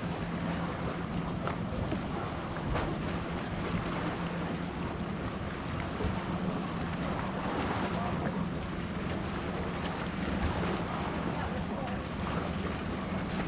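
Jet ski engine running steadily at speed, with water rushing past and wind buffeting the microphone.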